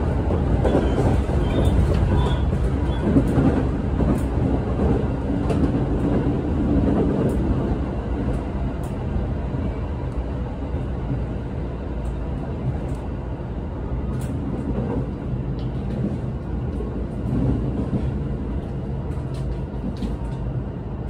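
Running noise of a Shinano Railway electric train heard inside the passenger cabin: a steady low rumble with faint clicks from the wheels on the rails. It eases a little partway through.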